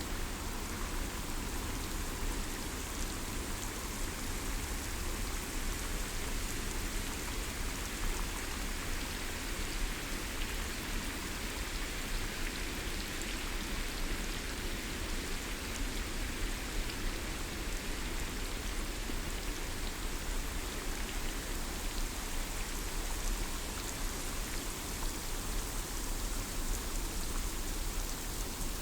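Steady rain falling on forest foliage, a constant patter of many drops.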